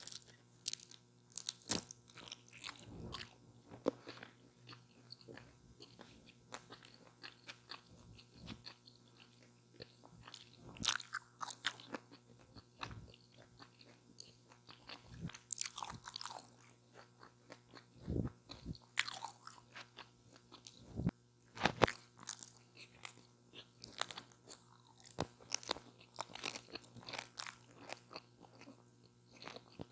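Close-miked crunching bites and chewing of a chicken taco with lettuce: irregular crackly crunches in clusters, with quieter wet chewing between them.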